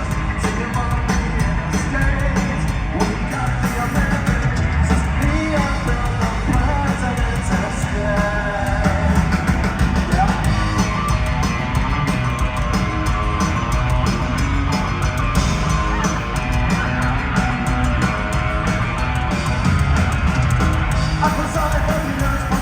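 Live punk rock band playing loudly with electric guitars, drums and a singer, heard as a continuous dense wall of sound with heavy bass.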